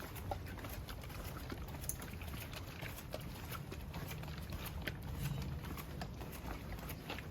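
Light footsteps pattering as small irregular ticks over a low rumble.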